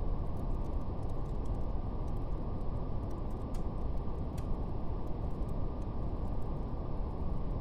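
Steady brown noise: a soft, even low rumbling hiss. Faint fire crackle runs over it as scattered small clicks, two of them a little more distinct near the middle.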